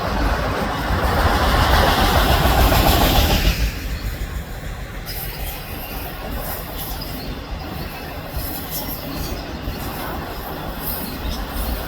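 Freight train of autorack cars rolling past. There is a loud rush of wheel and car noise for the first three seconds or so, then it settles into a steady, quieter rumble.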